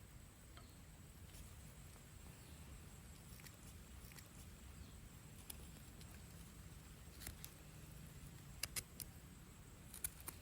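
Near silence: a faint low background rumble, with a few small sharp clicks near the end.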